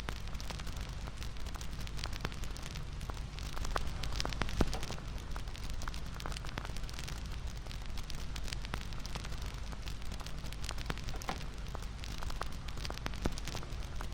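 Wood fire crackling: a steady, irregular stream of small pops and snaps over a low hiss, with one louder pop about four and a half seconds in.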